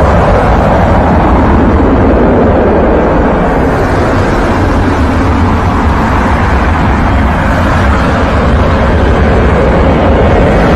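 Loud, steady noise of a US Air Force aircraft, heaviest in the low rumble, running evenly throughout.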